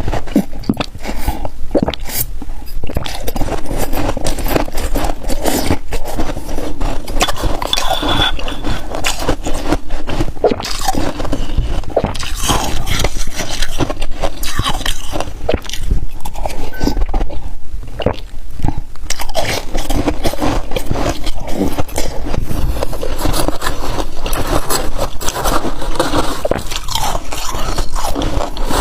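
Freezer frost being bitten and chewed: a dense, continuous crunching.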